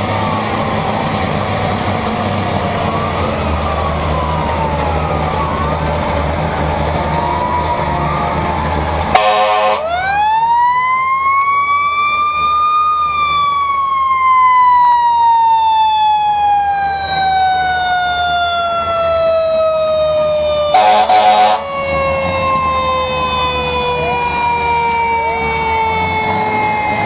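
Fire trucks sounding their sirens: several sirens wail over each other with engine rumble underneath. About nine seconds in, a short air horn blast is followed by a mechanical siren that winds up to a peak and then slowly winds down in pitch. A second air horn blast comes about two-thirds of the way through.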